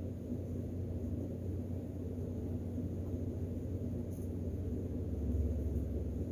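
Steady low mechanical hum with a couple of held low tones, swelling a little about five seconds in.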